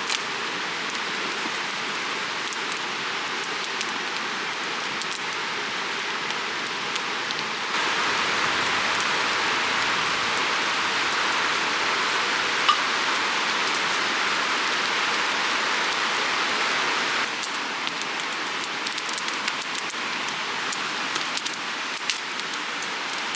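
Steady rushing of a shallow creek's running water, louder from about eight seconds in until about seventeen seconds, with a few faint ticks.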